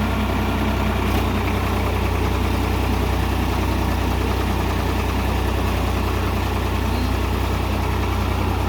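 Solis 5015 tractor's diesel engine idling steadily with an even low rumble.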